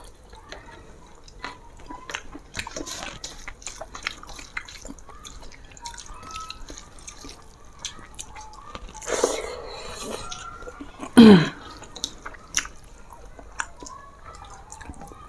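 Wet clicks and smacks of someone eating by hand: rice and fish curry being mixed with the fingers and chewed, in a small room. About eleven seconds in comes a louder, brief sound that slides down in pitch.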